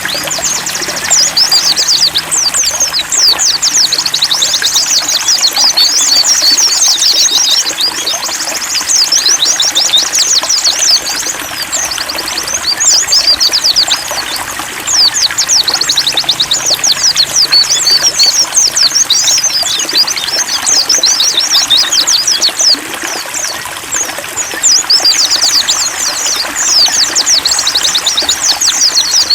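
White-eyes (pleci) singing long runs of fast, high twittering chirps in phrases separated by brief pauses, over the steady trickle of running water.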